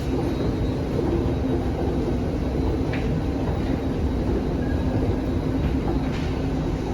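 Steady low rumble and hum of a deep underground metro station, with a faint brief click about three seconds in.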